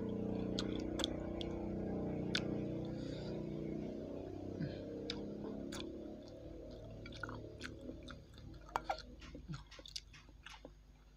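Close-miked chewing and wet mouth sounds of someone eating seblak, soft soaked crackers and egg in broth, with sharp clicks of a metal fork and spoon against a glass bowl. A low background fades away over the first half.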